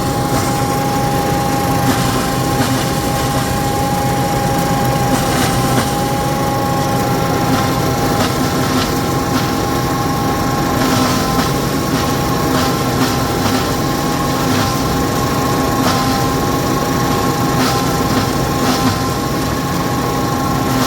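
Feed grinder running steadily, a dense mechanical rumble with a steady whine of several tones over it.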